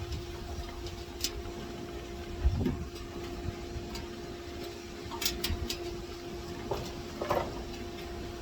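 Scattered metallic clicks and knocks of hand work on an air conditioner condenser unit, with a louder knock about two and a half seconds in, over a steady hum.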